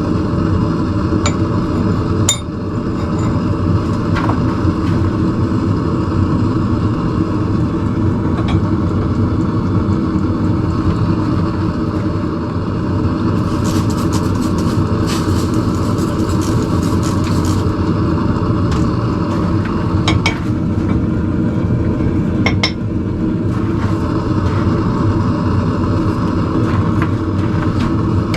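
A blacksmith's forge running with a loud, steady rumble while the tongs are reheated, with occasional light metal clinks, a short run of them about halfway through.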